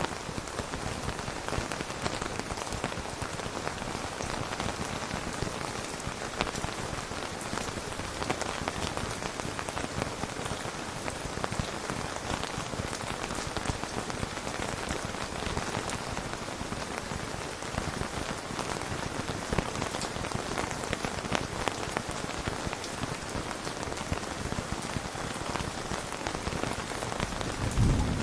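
Steady rain, a dense patter of drops striking a surface. Near the very end a low rumble of thunder begins.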